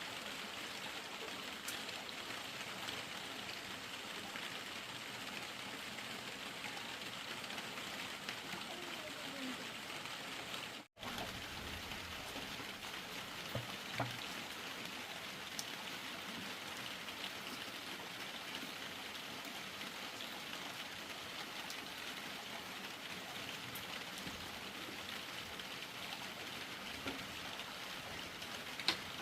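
Steady rain falling as an even hiss, broken by a brief dropout about eleven seconds in, with a few faint knocks.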